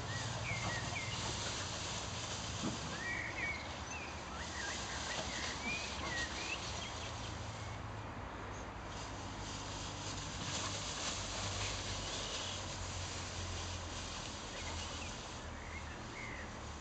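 Scattered short bird chirps over a steady outdoor background of hiss and low rumble.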